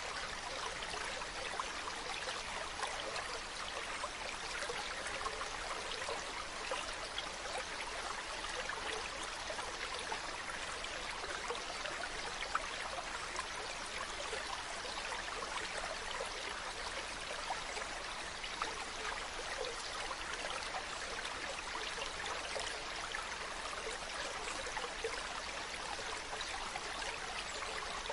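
Mountain stream running: a steady rush of water with fine trickling and splashing.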